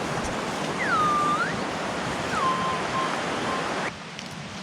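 A steady rushing noise, like wind on the microphone, that cuts off suddenly near the end. Over it come several whistled notes that swoop down, hold and rise again, then two short notes.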